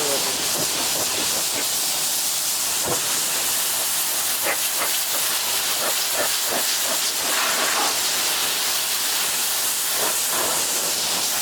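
Pressure washer spraying a high-pressure water jet onto a pickup truck's body: a steady hiss with scattered splatter.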